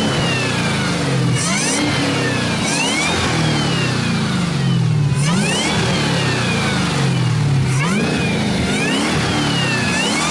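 Camaro ZL1's supercharged LT4 V8 being revved over and over: each rev climbs quickly and falls away more slowly. The supercharger's high whine rises and drops with the engine.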